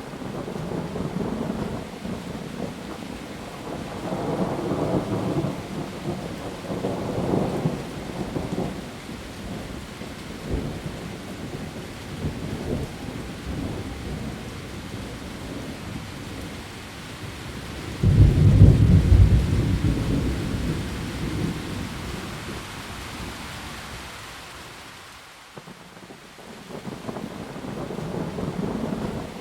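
Heavy rain falling steadily on leaves, with thunder: low rolling rumbles a few seconds in, a sudden loud clap about eighteen seconds in that rumbles away over several seconds, and another rumble near the end.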